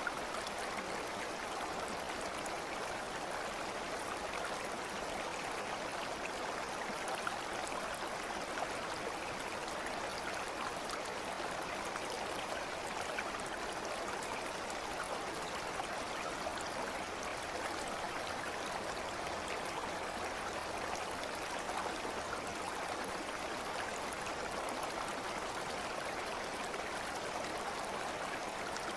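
A stream flowing, its water making a steady, even sound with no breaks or changes.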